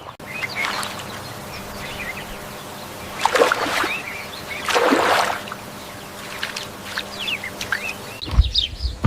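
Small birds chirping in short, quick falling notes, with two louder rushing noises a second and a half apart in the middle. Near the end the sound changes abruptly to denser chirping over low thumps.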